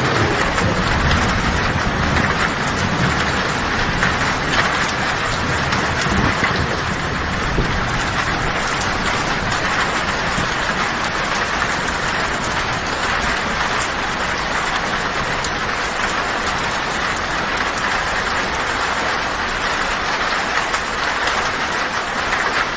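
Heavy rain drumming steadily on a tin roof, a dense even patter. A low rumble of distant thunder sits under it in the first several seconds and fades out.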